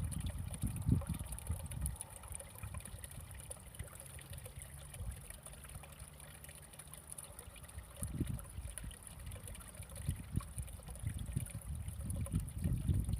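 Recorded water sounds: an uneven low sloshing and lapping of water that ebbs in the middle and swells again near the end.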